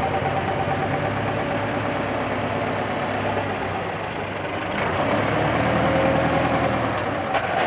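Massey Ferguson 260 tractor's diesel engine running steadily. It eases off about four seconds in and comes back louder a second later, with a few sharp clicks near the end.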